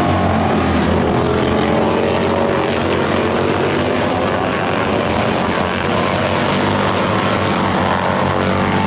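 Motorcycle engine running steadily at speed, its pitch wavering slightly with small changes in revs, under heavy wind rush on the microphone.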